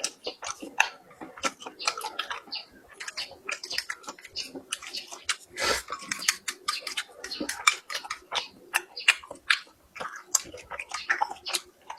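Close-up eating sounds: a person chewing noisily, with wet smacking and many irregular sharp clicks.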